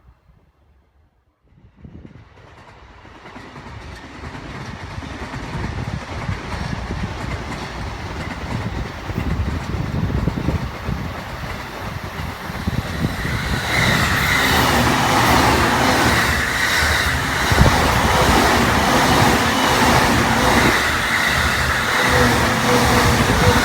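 Electric commuter train approaching and passing close by: its rumble and wheel clatter build steadily out of near quiet and grow loud about halfway through, when a steady whine joins in.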